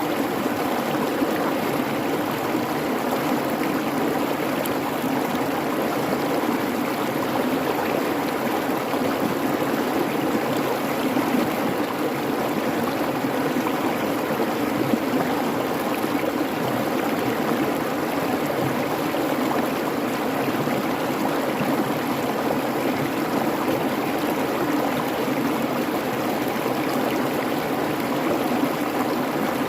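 A creek babbling steadily, a continuous rush of flowing water that never breaks or changes.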